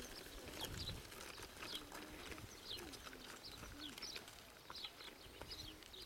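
Small birds chirping in short, quick, high calls, several a second, over a faint uneven crunch of footsteps and stroller wheels on a dirt track.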